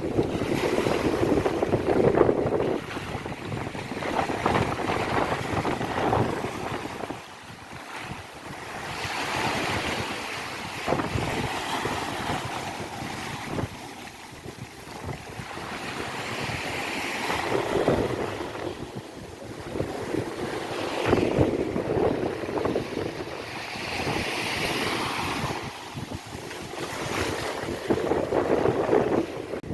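Ocean waves breaking and washing up a beach, swelling and fading every few seconds, with wind buffeting the microphone.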